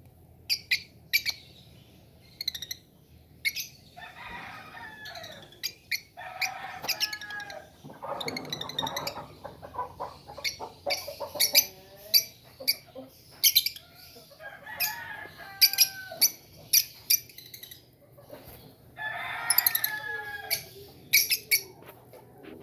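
African lovebirds chirping: many short, shrill chirps in quick succession, broken by several longer, lower calls from another bird that last a second or two each.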